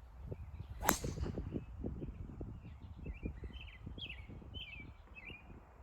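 A golf club striking the ball: one sharp crack about a second in. Birds chirp in the background.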